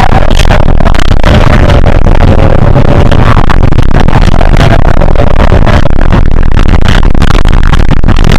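Hino HS8JRVL city bus under way: a steady rumble of engine and road noise with rattling clatter, recorded so loud that it is overloaded and distorted. A faint held whine sits above the rumble for a few seconds in the middle.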